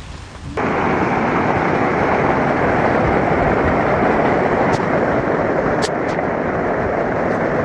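Loud, steady rush of fast-flowing floodwater that cuts in abruptly about half a second in, with a few faint clicks later on.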